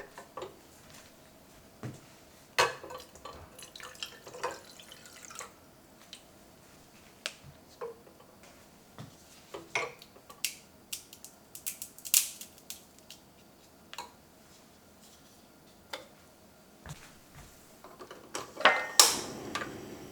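Kitchen work: scattered clinks and taps of dishes and utensils being handled, coming faster in the middle, with a louder, longer noisy sound near the end.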